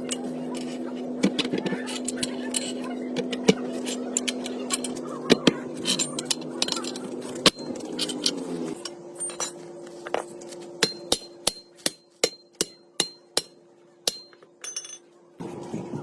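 Hammer blows on metal: a series of sharp, ringing strikes over a steady hum. The strikes come in a regular run of about two to three a second in the second half.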